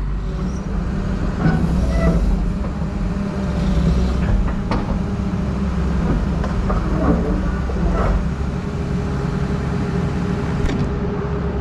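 Case 9030B excavator's diesel engine running steadily as the machine moves, with a few sharp clanks.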